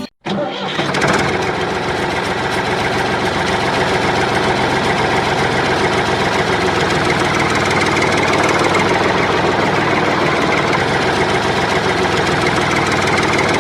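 An engine running steadily with a fast, even knocking beat. It starts abruptly after a cut and holds at an even level.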